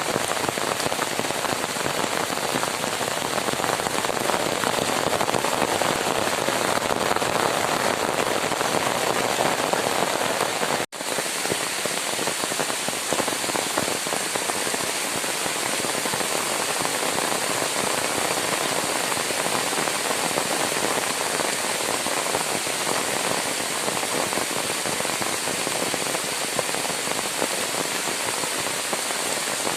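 Rain falling steadily, an even hiss and patter, with a brief gap about eleven seconds in.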